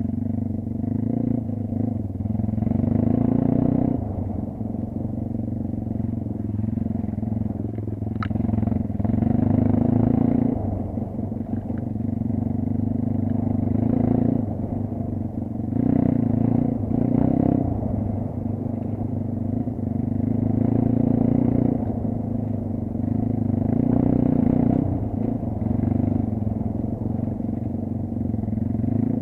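Kayo dirt bike engine running under changing throttle, swelling and easing off every couple of seconds as it rides off-road.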